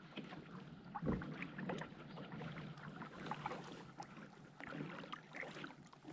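Light water lapping and splashing with scattered small knocks and clicks, typical of a small boat or kayak on the water; a slightly louder splash about a second in.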